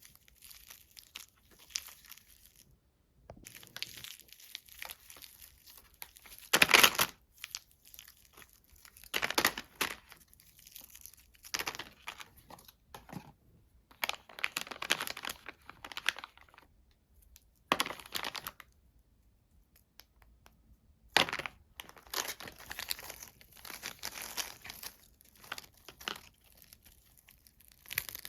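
Chocolate wrapper crinkling and tearing as it is handled and unwrapped, in irregular bursts with short quiet gaps; the loudest crackle comes about a third of the way in.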